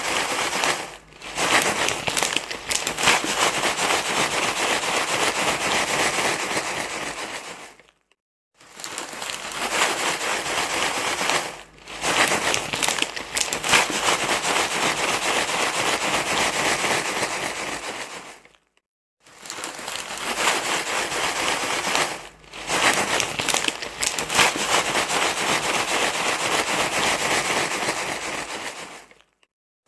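Continuous crinkling, rustling noise, a baby-soothing rustle sound, running in stretches of about ten seconds with brief silent gaps between them.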